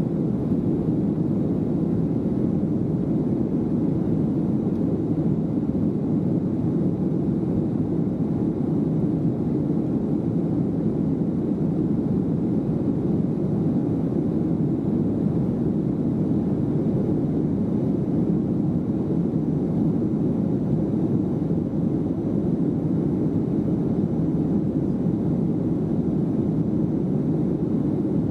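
Steady airliner cabin noise in flight: an even, unchanging rushing drone of engines and airflow, strongest in the low-mid range.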